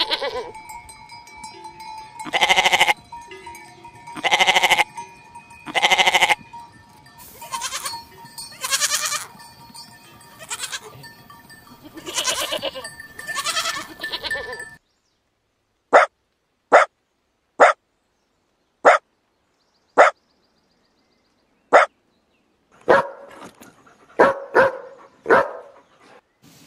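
Livestock calling: a series of drawn-out pitched calls over a steady ringing tone. About halfway through the sound cuts to short, sharp calls spaced roughly a second apart, ending in a quick cluster of calls.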